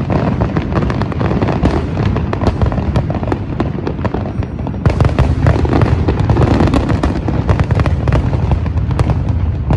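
Fireworks display going off in a dense, continuous barrage: many rapid crackles and pops over a constant rumble of booms, with no break.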